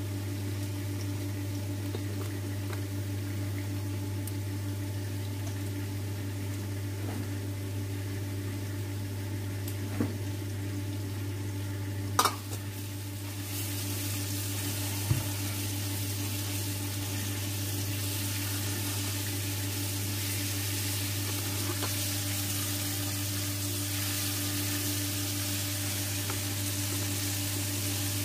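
Food sizzling in a non-stick frying pan over a gas flame while a spatula stirs it, with three sharp knocks of the spatula on the pan, the loudest about twelve seconds in. The sizzle grows louder about halfway through, over a steady low hum.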